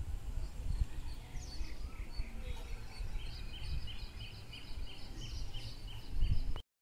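Birds calling: a quick series of short, high chirps, repeated a few times a second from about two and a half seconds in, over a low rumble.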